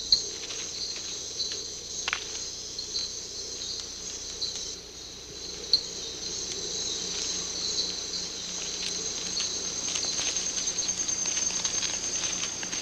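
Chorus of rainforest insects trilling steadily in high-pitched buzzing tones, turning into a faster, even pulsing near the end, with a few faint clicks.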